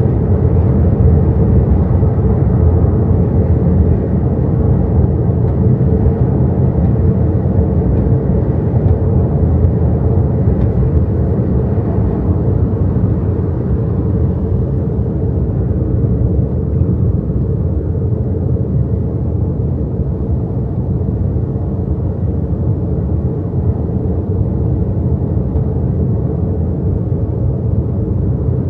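Steady road and tyre rumble in the cabin of an XPENG G6 electric SUV on the move, with no engine note; it eases a little in the second half.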